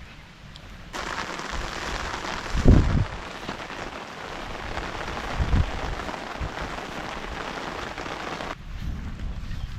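Heavy rain falling as a steady hiss that starts suddenly about a second in and cuts off suddenly near the end, with two short low thumps in the middle.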